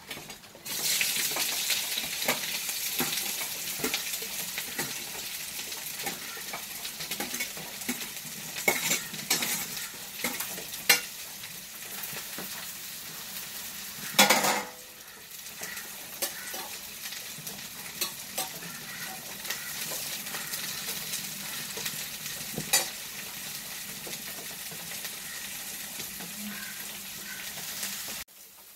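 Sliced bitter gourd sizzling as it fries in hot sesame oil in a metal kadai, starting about a second in as the slices go into the oil. A metal spatula clicks and scrapes against the pan as it is stirred, with one louder clatter about halfway through as the pan is moved.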